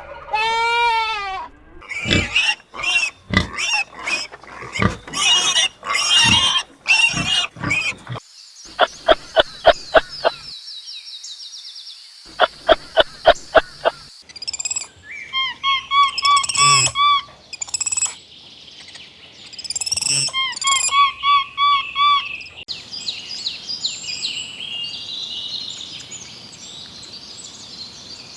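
A sequence of different animal calls: the tail of a wavering bleat, then a run of short grunts, then rapid sharp clicks, then repeated high chirping notes in quick groups, ending in a high twittering chatter.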